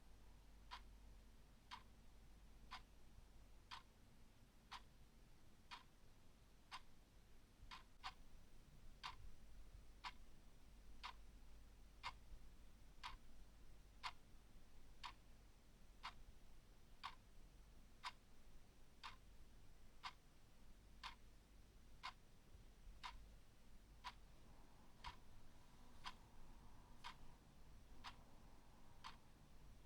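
Clock ticking faintly and steadily, about once a second.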